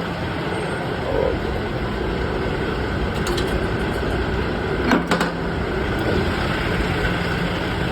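A truck's engine running steadily, with a few light clicks about three seconds in and a sharp knock about five seconds in.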